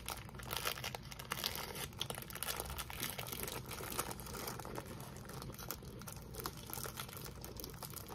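Plastic cracker wrapper crinkling as it is handled, a run of small irregular crackles.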